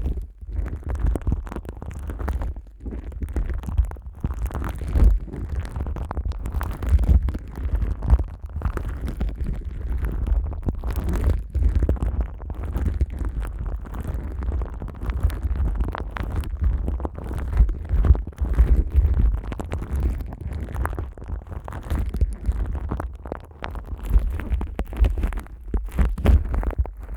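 Plastic wrap stretched over a dummy head microphone being rubbed and crinkled by hands in continuous irregular strokes, with a heavy low rumble from handling the microphone.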